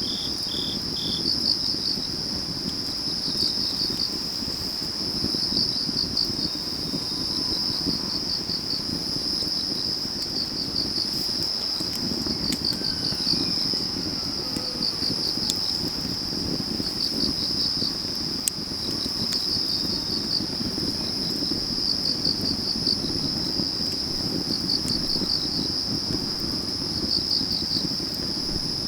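Autumn crickets and other grass insects chirping, a steady high trill with groups of chirps every two seconds or so, over the low crackle of a burning firewood fire with a few sharp pops.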